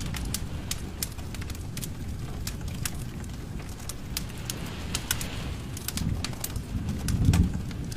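Wood fire in a fireplace crackling, with irregular sharp pops and snaps over a low rumble of flames that swells briefly near the end.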